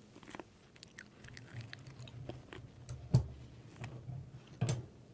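Someone chewing food, a scatter of soft crunching clicks, with a sharper click about three seconds in and another near the end.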